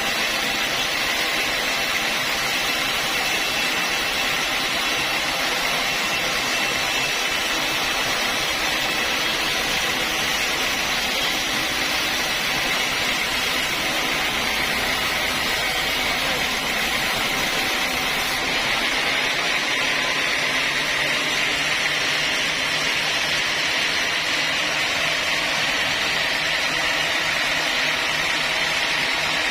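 Sawmill saw running steadily while sawing mahogany logs. It makes a continuous machine noise that shifts slightly in tone about two-thirds of the way through.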